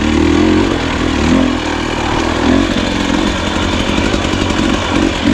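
Husqvarna TE250i two-stroke dirt bike engine running under changing throttle, its pitch rising and falling every second or so as the bike is ridden.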